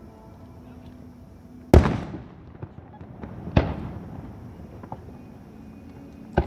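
Aerial fireworks shells bursting: two loud booms about two seconds apart, each trailing off in a rumble, then a sharper crack near the end.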